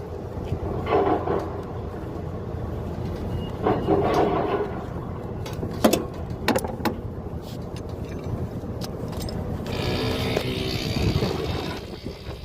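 Steady traffic rumble with a few sharp clicks about halfway through; near the end a louder passing vehicle adds a hiss and a whine.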